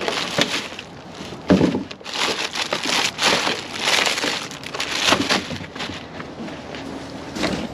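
Plastic bags and packaging rustling and crinkling as produce is rummaged out of a dumpster, with irregular knocks and thuds.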